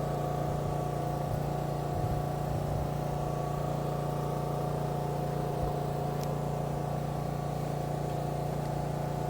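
Diesel truck engine idling steadily, a constant low hum with steady overtones.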